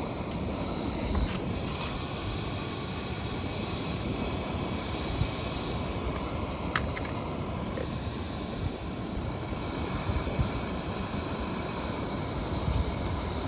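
Wind buffeting the microphone over the steady rushing hiss of canister backpacking stoves burning at full flame, with one sharp click about seven seconds in.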